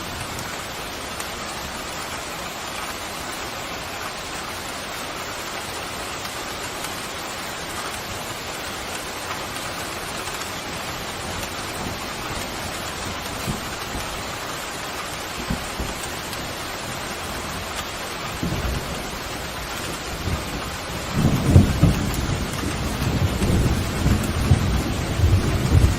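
Steady pouring rain. In the last third a low rumble of thunder builds and becomes the loudest sound, rolling on to the end.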